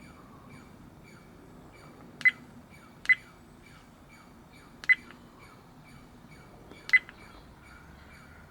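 Redtiger F7N dash cam giving short button beeps as its side buttons are pressed to step through the menu, four beeps at uneven intervals. A faint, regular ticking runs underneath, about two or three ticks a second.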